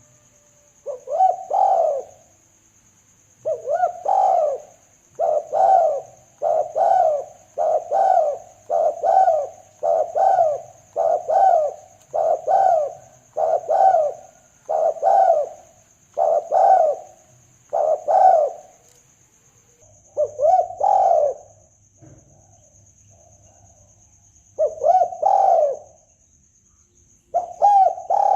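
Spotted dove (derkuku, tekukur) cooing: short repeated coo phrases about every second or so, with a longer pause about two-thirds of the way through, over a faint steady high hiss. It is played as a lure call for hunting doves.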